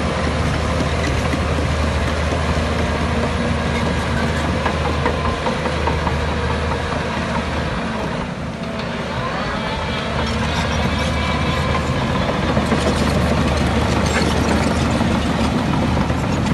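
Heavy diesel earthmoving machinery running steadily, with a brief dip in loudness about halfway through.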